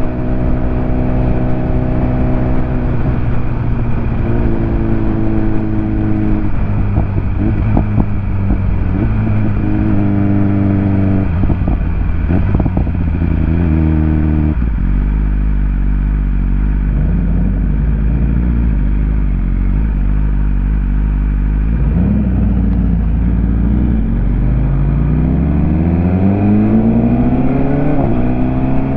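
BMW S1000RR inline-four engine under way, its pitch stepping up and down through gear changes. About halfway it drops to a low, steady note. Near the end it climbs in a long rising sweep as the bike accelerates.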